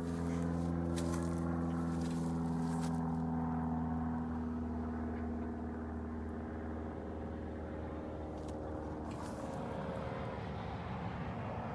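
A passing vehicle's engine droning: a steady pitched hum that fades away after about four seconds, with another engine hum coming in near the end.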